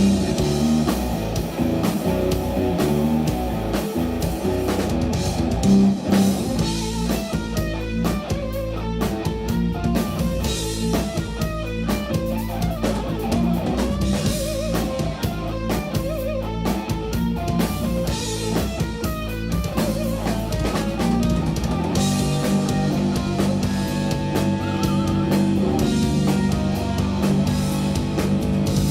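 Live instrumental jazz-rock fusion band playing: electric guitar, bass guitar and drum kit. It is busy and fast-changing at first; about two-thirds of the way through, the band settles into held low chords under the drums.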